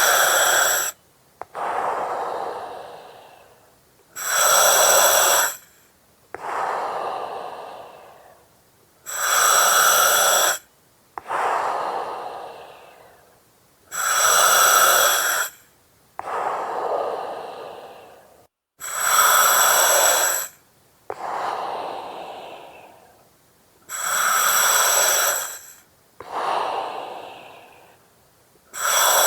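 Slow, steady breathing through an oxygen mask, about one breath every five seconds. Each breath has a loud hiss with a steady whistling edge from the mask's oxygen regulator, followed by a softer breath that fades out.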